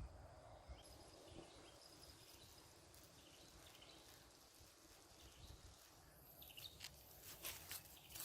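Near silence: faint outdoor ambience with a low rumble and a few faint insect or bird chirps, and a run of soft rustles and clicks starting about two-thirds of the way in.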